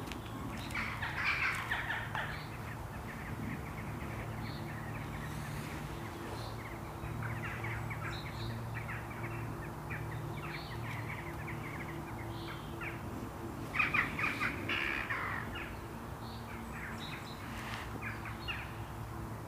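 Birds calling in harsh, rapid bursts three times: about a second in, around seven seconds, and loudest around fourteen seconds, over a faint steady low hum.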